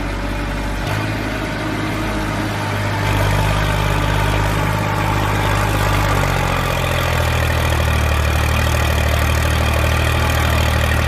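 Heavy diesel engine running, its speed and loudness stepping up a few times and then holding steady.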